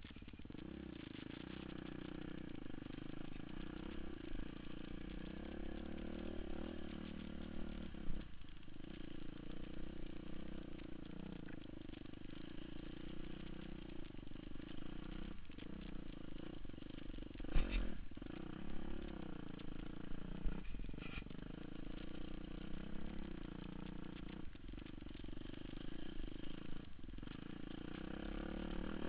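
Enduro motorcycle engine running as it is ridden off-road, its revs rising and falling with the throttle. Several short knocks break in, the loudest about two-thirds of the way through.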